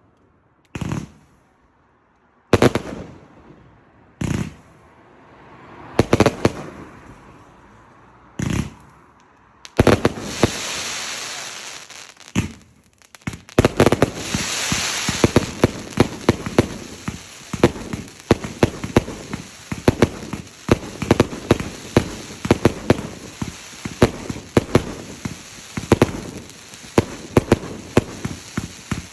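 Fireworks going off: single loud bangs every second or two at first, then from about ten seconds in a dense run of rapid crackling pops over a hiss.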